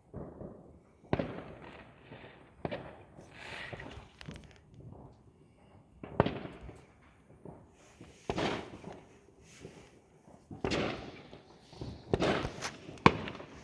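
New Year's Eve firecrackers and fireworks going off around the neighbourhood: irregular sharp bangs every second or two, each trailing off in an echo, with the loudest bangs near the end.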